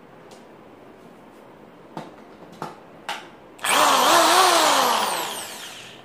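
Electric hand drill starting after a few clicks of handling, running for about a second with its speed wavering, then winding down with a falling pitch.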